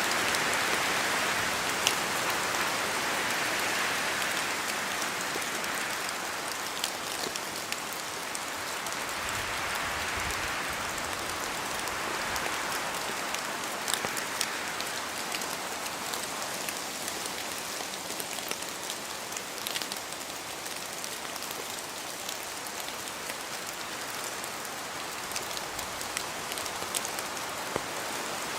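Steady rain falling in a forest, with drops falling from the trees and a few louder single drips. Wind swells and fades through the trees, strongest in the first few seconds.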